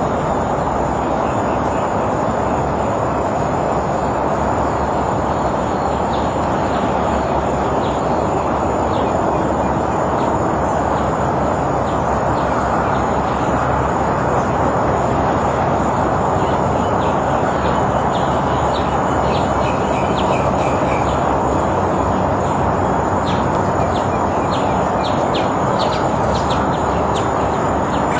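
Small birds chirping in short, quick high notes, more often in the second half and busiest near the end, over a loud steady rushing background noise. A thin high-pitched whine runs steadily underneath.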